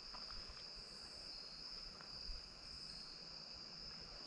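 Crickets or similar insects trilling steadily in a high, even chorus, with a faint click a little over two seconds in.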